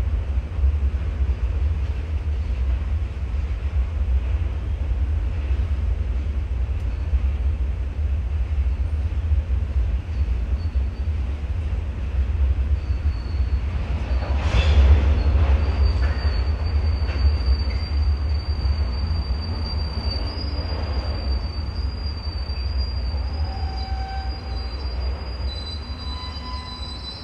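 Freight train rolling past with a heavy low rumble. About halfway through comes a single loud clank, and then the wheels start squealing in a high steady tone that goes on while the rumble slowly fades.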